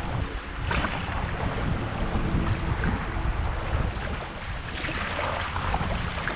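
Wind rumbling on the microphone over a steady wash of water from a canoe on the river.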